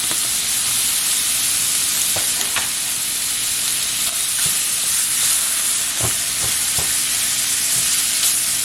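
Seasoned, partly frozen chicken breasts frying in hot butter in a pan: a steady sizzle with a few faint crackles.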